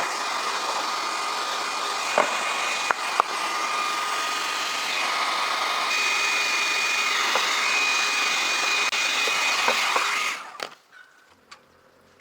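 A high-speed motor running steadily with a whine and rushing air, with a few sharp clicks, then cutting off suddenly near the end.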